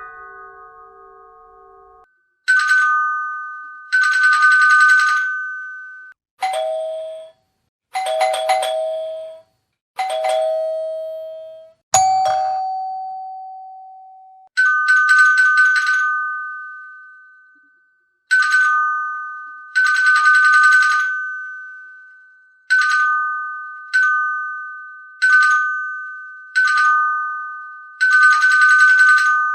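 Doorbell chimes ringing again and again, two-note ding-dongs that start suddenly and fade out. Some rings are higher in pitch and some lower, and several carry a fast rattling buzz over the chime.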